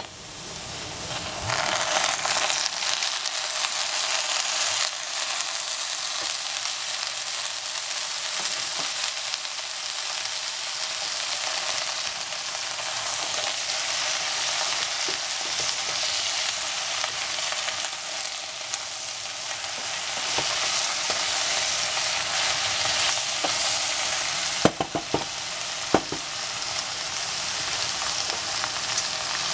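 Diced eggplant and squash sizzling steadily in hot oil in a stainless steel pot, with a few sharp knocks near the end.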